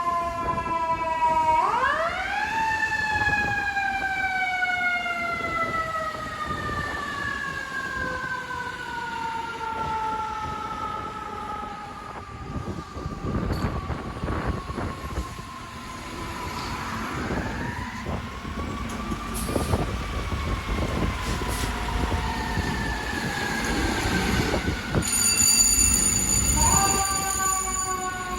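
Fire apparatus mechanical siren winding up fast and coasting slowly down in pitch, three times, over the rumble of the trucks' engines. A high steady squeal starts near the end.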